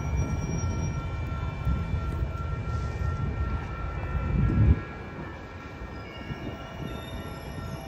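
A train running on the rails: a low rumble with a steady high whine over it. The rumble drops off sharply about two-thirds of the way through.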